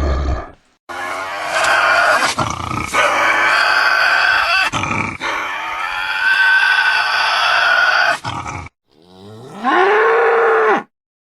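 Wolfman creature sound effects: a long, loud pitched cry lasting several seconds that cuts off abruptly, then a shorter call that rises in pitch, holds and stops suddenly.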